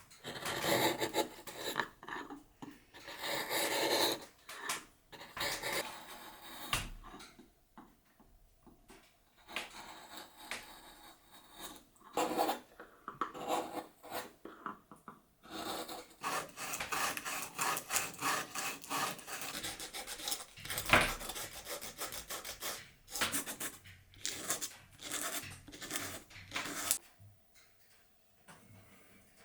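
A hand tool scraping and shaving a block of wood in quick repeated strokes, in runs broken by short pauses, as it is carved by hand.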